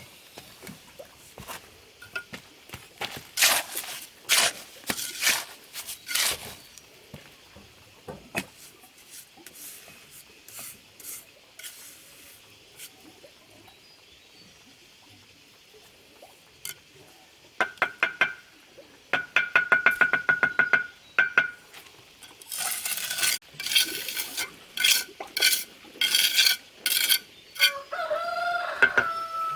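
Bricklayer's trowel scraping mortar and clinking against bricks, with a quick run of rapid even taps about two-thirds of the way through. A short steady tone sounds near the end.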